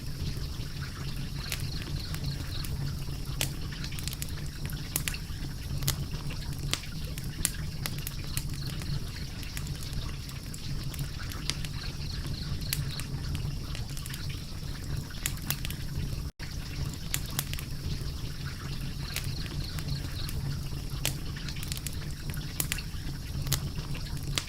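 Wood fire crackling: frequent sharp, irregular pops and snaps over a steady low rumble of burning. The sound cuts out for an instant about two-thirds of the way through.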